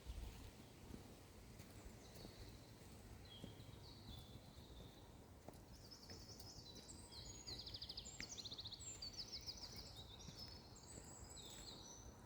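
A small bird singing faintly in short, high chirps and trills that come thickest about six seconds in, over a low rumble.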